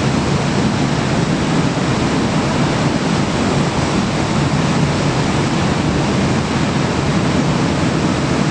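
Steady, loud wind noise rushing over the microphone in strong wind.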